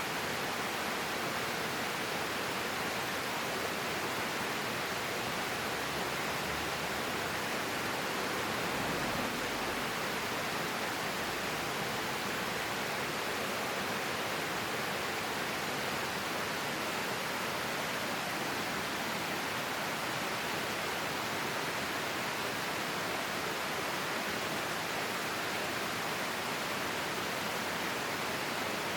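Clear forest stream flowing, an even, unbroken rush of water.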